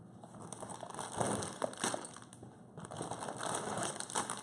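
Packaging being handled: plastic bags of LEGO pieces crinkling and rustling, with small clicks of the bricks inside.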